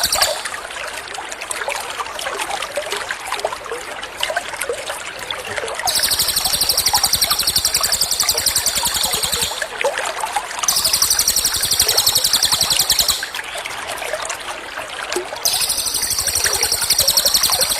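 Running water trickling steadily, with a rapid, high-pitched trilled bird phrase coming in three times, each for a few seconds. This is 'tembakan' masteran: recorded calls played for a white-rumped shama to learn into its song.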